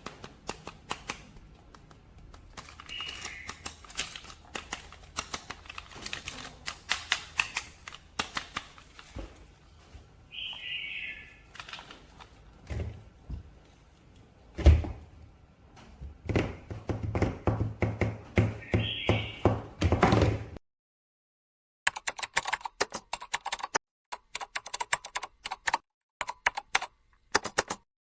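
Unboxing handling of plastic toy packaging and action figures: irregular clicks, taps and rustles, with one loud knock about halfway through. After a sudden break about two-thirds in, quick bursts of rapid clicking like typing on a computer keyboard.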